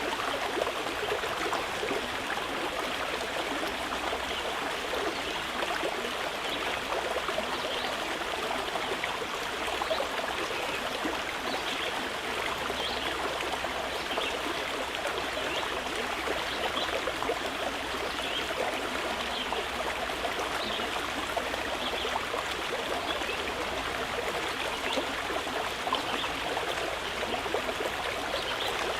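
Mountain river flowing steadily, an even rushing and trickling of water over stones.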